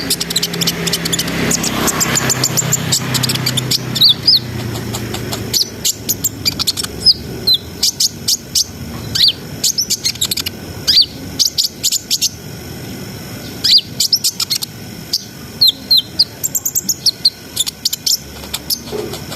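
A konin (kolibri ninja sunbird) singing in rapid runs of short, high chirps and quick down-slurred notes, strung together without a break. During the first five seconds a steady low noise runs underneath.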